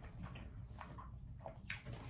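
A man chewing food with his mouth closed: faint, soft mouth sounds with a few small clicks.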